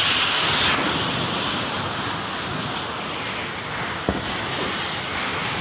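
Swollen, flooding river rushing past in a loud, steady roar of water, with one short sharp knock about four seconds in.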